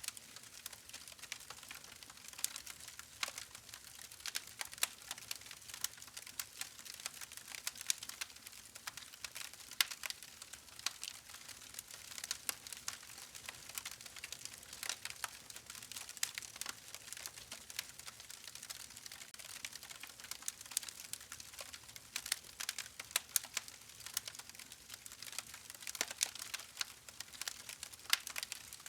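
Campfire crackling: a steady hiss of burning wood with dense irregular pops and snaps, several sharper pops standing out.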